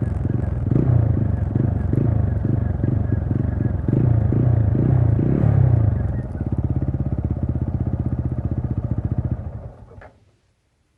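TVS Apache RTR 200 4V's single-cylinder engine running with an uneven, throbbing note for about six seconds, then settling into a steady idle. Near the end it cuts out, with a click as it stops.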